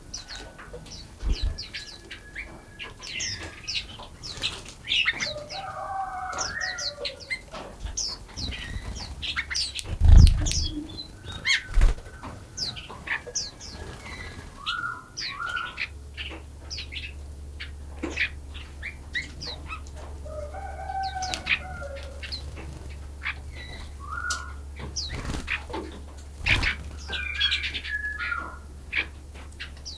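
Several forest songbirds chirping and singing, with quick rising and falling notes and one warbled phrase repeated twice. A few dull thumps break in, the loudest about a third of the way in, and a low hum comes in around halfway.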